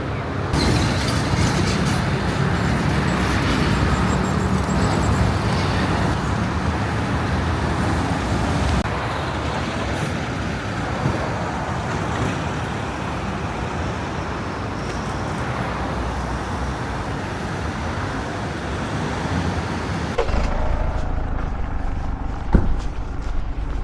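Road traffic noise from passing vehicles, a steady wash of sound. It changes abruptly a few times, and for the last few seconds it becomes a duller, lower rumble.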